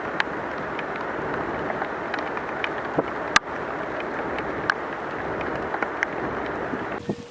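Steady hiss of heavy rain falling, with scattered taps of drops and one sharp click a little past the middle.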